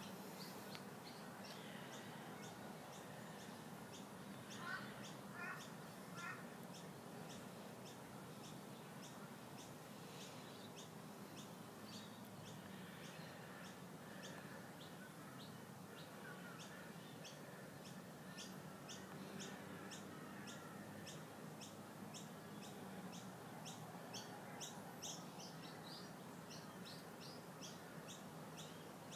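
Faint outdoor chirping: short, high chirps repeated evenly about twice a second, with a quick run of three lower bird calls about five seconds in.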